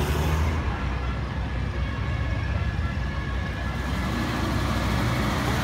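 Car engines running at low speed as classic cars roll slowly past, a big red 1970s Cadillac convertible among them.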